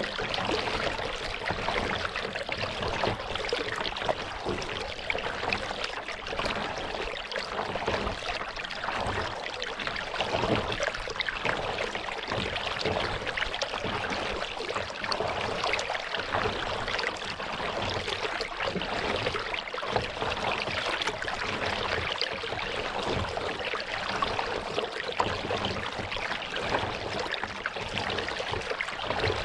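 Water trickling and splashing around a kayak being paddled: a steady, busy patter of small splashes and drips from the paddle and hull.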